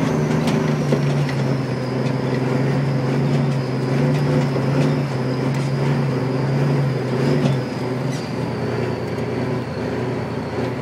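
Dump truck engine running steadily, with a thin high whine above it and a few knocks; the engine note drops about three-quarters of the way through.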